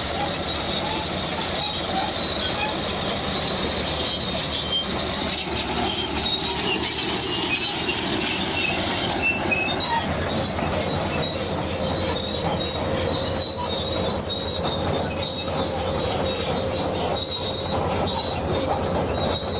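Bulldozer working: a steady engine rumble under continuous high-pitched squealing and clanking from the steel crawler tracks.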